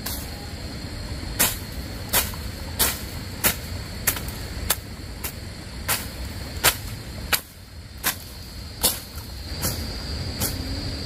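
A steady series of sharp knocks, roughly one every two-thirds of a second, over a low rumble and a steady high insect buzz.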